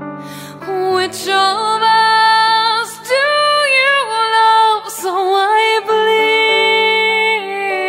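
Music: a female voice sings a series of long, held wordless notes with a slight waver, stepping between pitches, with short pauses between phrases.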